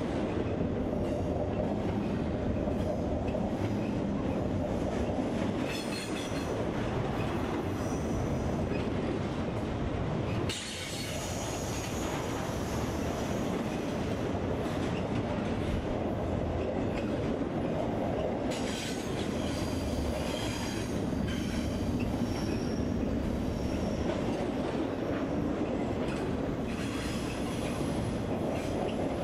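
Double-stack container train cars rolling past on steel rails in a steady rumble and clatter of wheels. Every so often the wheels give a high squeal.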